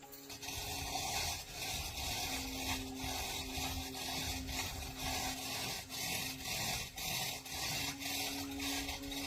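Steady back-and-forth scraping by hand, a little under two strokes a second, typical of filing or scraping during engine repair work.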